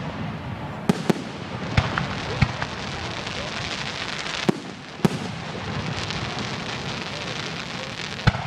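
Fireworks display: shells bursting in sharp bangs, about seven of them at irregular intervals, over a steady noisy background.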